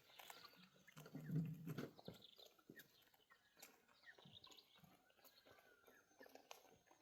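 Faint farm-animal sounds: scattered clicks and short chirps, with a louder low call about a second in.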